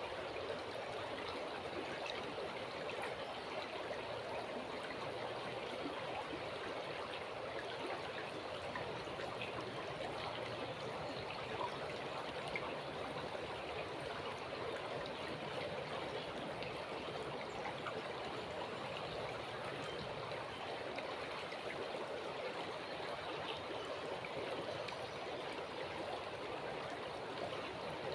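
River water flowing steadily, an even, unbroken wash of water sound.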